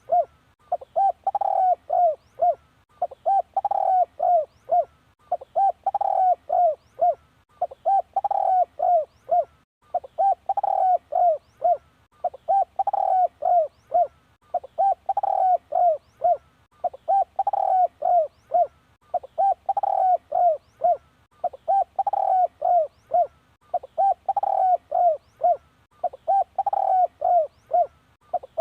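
Spotted dove cooing, the same phrase of four or five short coos repeated about every two seconds. This is the dove's cooing call used as a decoy to lure wild spotted doves.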